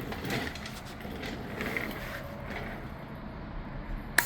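Construction expansion foam sputtering and hissing out of a reusable foam dispensing gun, with a sharp click just before the end.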